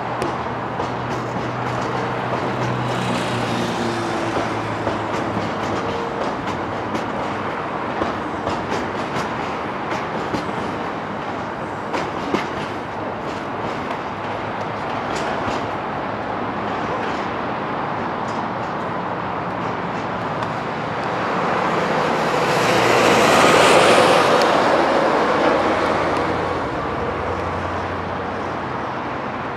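Loaded aggregate hopper wagons of a freight train rolling past, with wheels clacking now and then over rail joints. About three quarters of the way through, a louder rush of noise swells and fades again.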